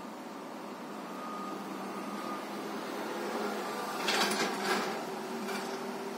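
Motor vehicle running steadily, with two short hissing bursts between four and five seconds in.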